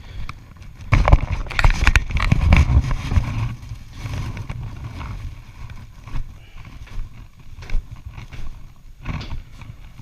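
Motorcycle on the move: its engine running under a rush of wind over the microphone, loudest for a couple of seconds about a second in, then steadier and quieter.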